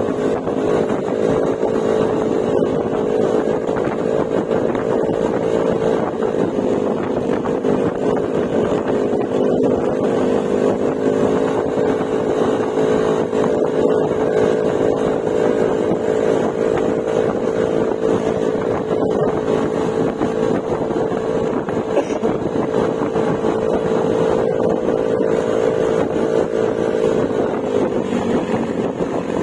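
Yamaha Mio Gravis scooter's single-cylinder engine breathing through an Akrapovic exhaust with silencer, cruising at a steady speed with an almost constant engine note that dips slightly near the end.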